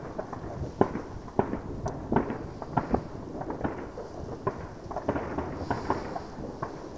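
Fireworks going off a kilometre or two away: an irregular string of bangs and cracks, about two to three a second.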